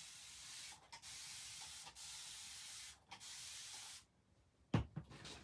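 Wet paper towel rubbing across a board, wiping off red chalk paste in a run of steady strokes with brief pauses, then stopping; a single thump near the end.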